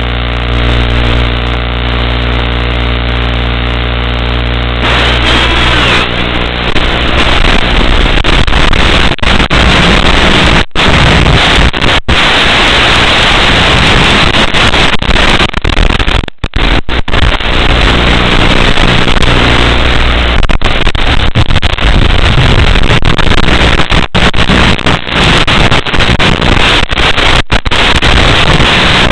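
Loud electronic noise on the analog FPV receiver's audio channel, as recorded by the goggles. It starts as a steady buzz of several held tones, and about five seconds in turns to harsh static hiss broken by many brief dropouts.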